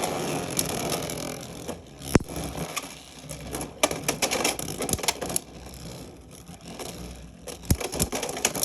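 Beyblade X spinning tops whirring and scraping across a plastic stadium floor, broken by sharp clacks as they collide, the loudest hit about two seconds in.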